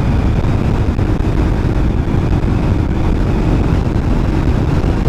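Honda NC700X's parallel-twin engine running steadily while the motorcycle rides along, with wind noise on the microphone.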